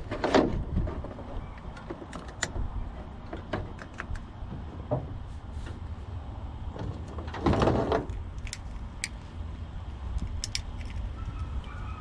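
Scattered clicks and light metallic clatter of battery charger leads and clamps being handled, with two louder scraping rustles, one just after the start and one about seven and a half seconds in, over a steady low rumble.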